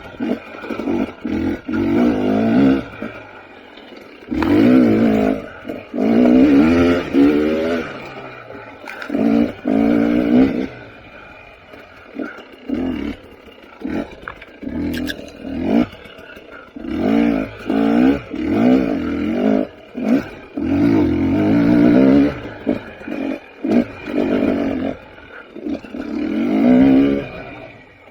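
KTM 300 XC TPI two-stroke dirt bike engine revving up and down in repeated bursts of throttle with short lulls between them as the bike is ridden along a trail.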